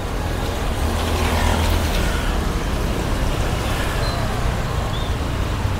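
Street traffic: a motor vehicle running close by over steady road noise, a little louder about a second or two in.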